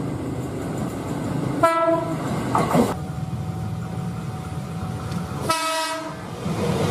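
Electric commuter train sounding two short horn blasts, about two seconds in and again near the end. Under them is the steady rumble of the train running on the rails, with a faint steady whine in between.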